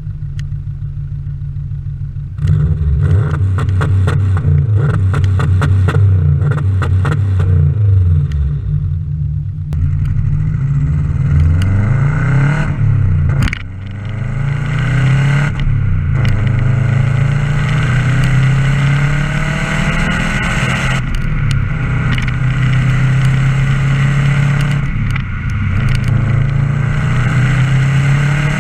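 Subaru Impreza WRX GC8's turbocharged flat-four engine running through an aftermarket exhaust. It runs steadily at first, gets much louder about two seconds in, then revs up and down repeatedly, with a sudden brief drop about halfway through.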